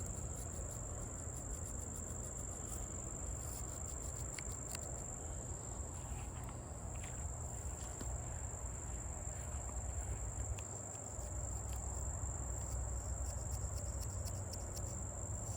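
Insects trilling in one steady high continuous tone, over a low rumble and faint scattered scratching of a knife blade being rubbed with sand.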